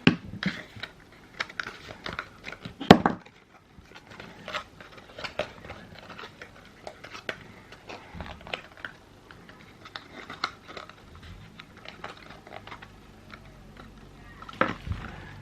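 Small fold-up treat boxes being handled and folded together: irregular rustling and crinkling with many small sharp clicks, and a louder knock about three seconds in.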